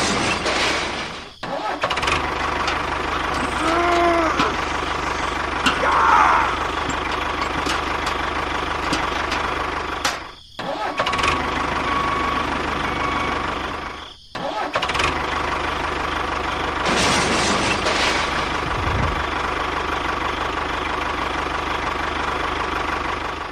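Vehicle engine running steadily, broken by three short drop-outs, about a second and a half in, about ten seconds in and about fourteen seconds in.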